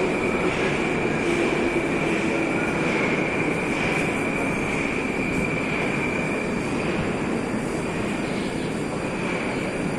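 Moscow metro train running on the track: a steady rush of wheel and rail noise with a constant high-pitched whine, and faint knocks a little under a second apart.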